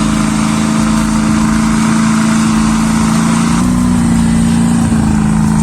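Truck engines running hard at steady high revs, with the pitch stepping up briefly about three and a half seconds in and dropping back about a second later.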